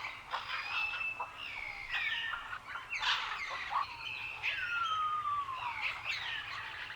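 Several birds singing at once: overlapping chirps, short trills and whistles, with one long falling whistle about halfway through.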